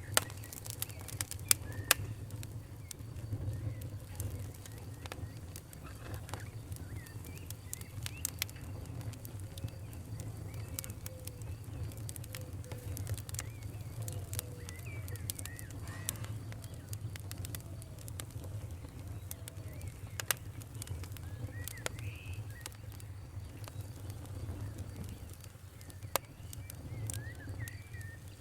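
Campfire crackling, with sharp pops scattered irregularly over a low steady rumble. Birds give short chirping calls throughout.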